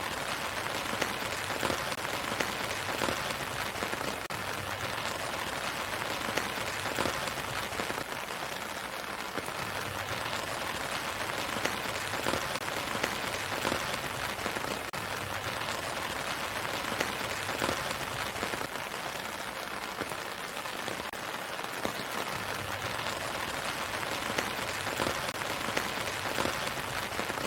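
Steady rain falling on a surface: an even hiss with many small scattered drop taps.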